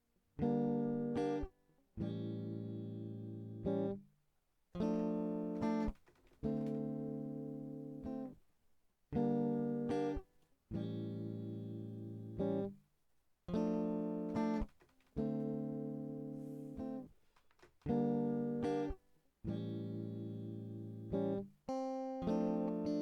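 Acoustic guitar playing a repeating pattern of strummed chords. Each chord rings for a second or two and is then cut off sharply, leaving brief silent gaps between chords.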